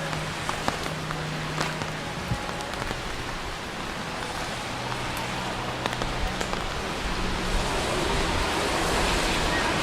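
Steady rain falling and splashing on hard surfaces, with scattered sharp drip ticks. About seven seconds in, the rain noise grows louder and a low rumble joins it.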